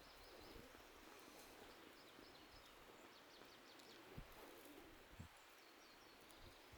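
Quiet forest ambience with faint, scattered high bird chirps, and two soft low knocks about four and five seconds in.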